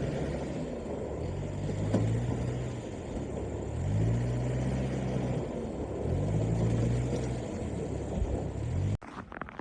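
A motor vehicle engine revving up and holding three times, each rev a rising pitch that then levels off, over a steady low rumble. The sound cuts off suddenly near the end.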